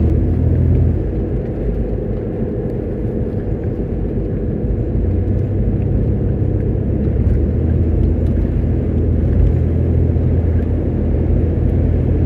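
Road vehicle driving at steady speed, towing a load: a continuous engine drone and road rumble, with a low hum that eases off about a second in and comes back strongly about five seconds in.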